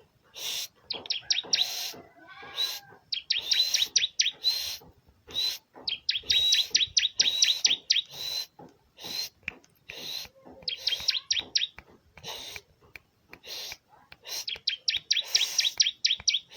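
Ciblek (bar-winged prinia) singing: rapid trills of sharp, high notes in bursts about a second long, repeated with short pauses between.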